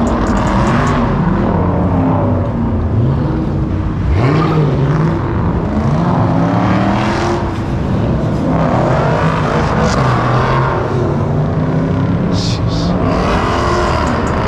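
Car engines revving and accelerating, the pitch repeatedly rising and falling, with a steep climb about four seconds in.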